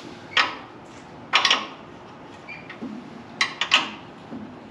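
Steel sockets clinking as one is tried for size on a bolt: four sharp metal clinks, the last two close together about three and a half seconds in.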